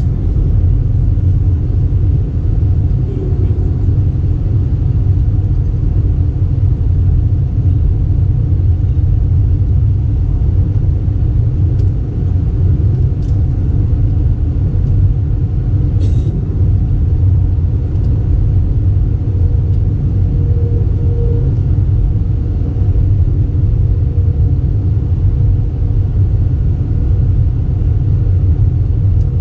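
Steady low rumble inside the cabin of an Airbus A320, with engine and cabin noise holding level throughout.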